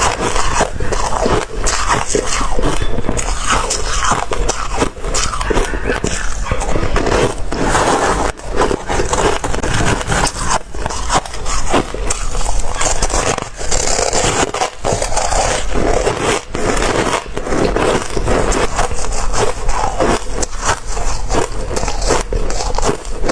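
Ice being bitten and chewed close to the microphone: steady, loud crunching with many sharp cracks and crackles.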